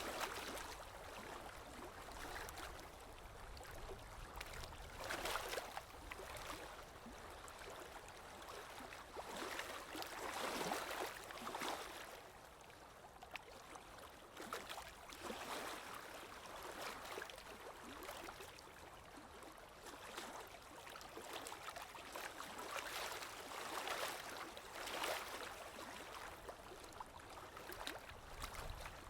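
Flowing water, a steady rush that swells and eases every few seconds, with small splashes scattered through it.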